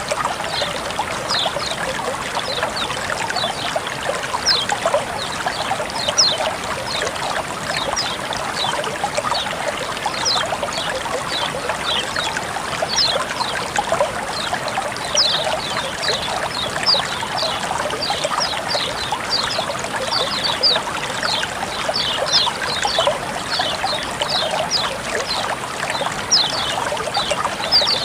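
Water flowing and trickling steadily, with many small splashing drips over the running water.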